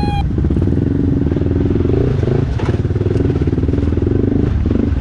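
Trail motorcycle engine running at a fairly steady, low speed under load, dipping briefly a couple of times, with a short clatter about two and a half seconds in.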